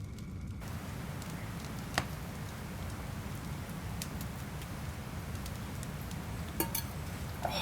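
Campfire burning with a steady low rumble and a few sharp, widely spaced pops and crackles.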